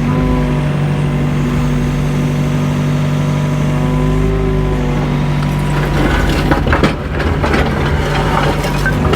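Mini excavator's engine running steadily under hydraulic load, with a whining tone that shifts in pitch. From about six seconds in comes a run of knocks and scrapes as the bucket works against old concrete foundation block.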